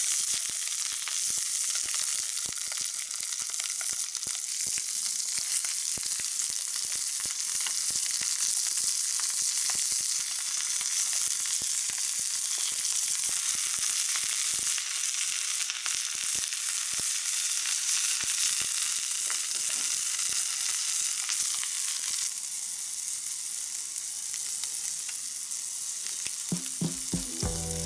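Food sizzling as it fries in a pan: a steady hiss with many small crackles, easing a little in the last few seconds.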